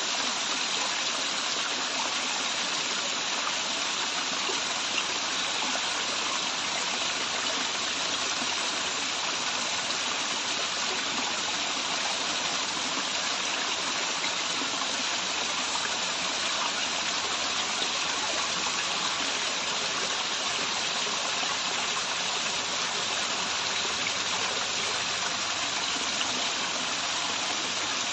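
Waterfall and its running stream: a steady, unbroken rush of falling and flowing water.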